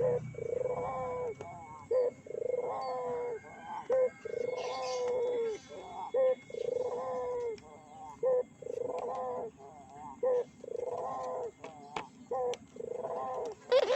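Puter (Barbary dove) cooing over and over, about once a second, each a short clipped note followed by a longer coo. A few faint high chirps from another small bird come about a third of the way in.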